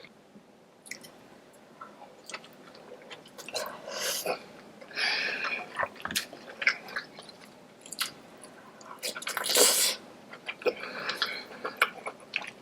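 Close-miked eating: chewing and wet squishing of a sauce-coated seafood boil, with scattered small clicks and a louder wet burst about ten seconds in.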